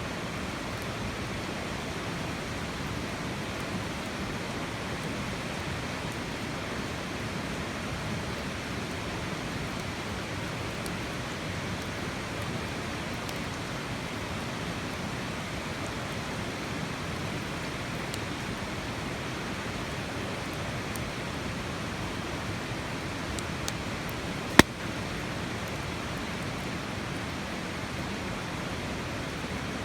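A wood campfire burning: a few faint crackles and one sharp pop a little before the end, over a steady rushing background noise.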